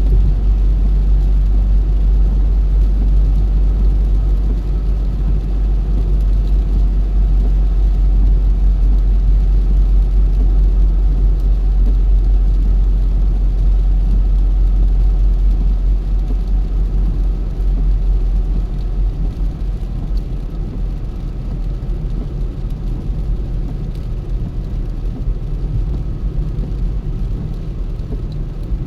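Car driving along a road, with a steady low engine and road rumble that eases off a little about two-thirds of the way through.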